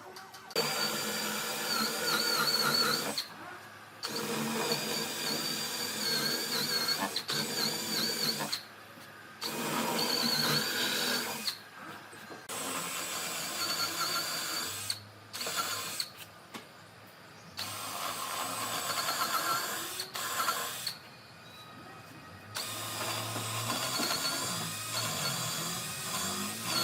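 Woodworking power tool run in about six bursts of a few seconds each, stopping briefly between them.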